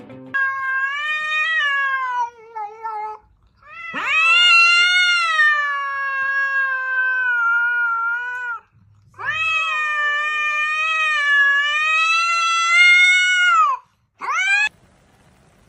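A domestic cat yowling in long, drawn-out wails: three calls of several seconds each, wavering in pitch, then a short one near the end.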